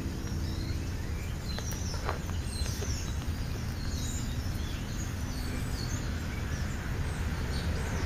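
Faint, scattered high chirps of birds over a steady low rumble, with a few light clicks about two seconds in.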